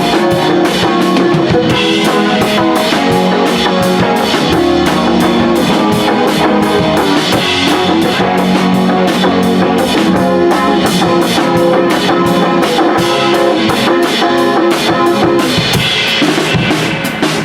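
Live rock band playing: electric guitar and a drum kit with steady, rapid drum hits, no singing.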